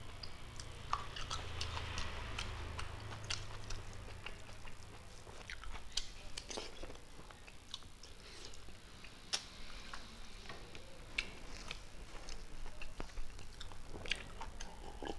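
Close-miked eating sounds: wet, irregular clicks and smacks of a mouth chewing rice and curry eaten by hand. Near the end, sipping from a glass.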